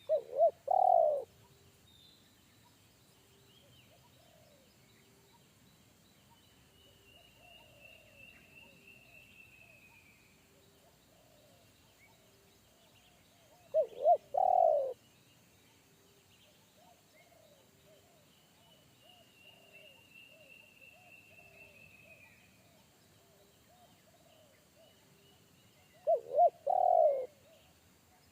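Spotted dove (tekukur) cooing: three phrases about thirteen seconds apart, each two short notes followed by a longer one.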